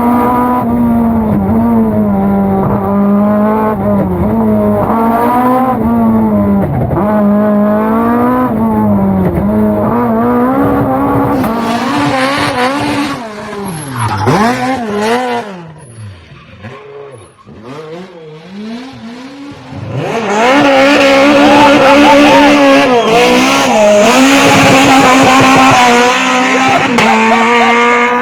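Fiat 131 Abarth rally car's engine driven hard, its pitch climbing and dropping with gear changes and corners. About halfway through it falls back to low revs and runs quieter for a few seconds, then pulls hard again and is loudest in the last third.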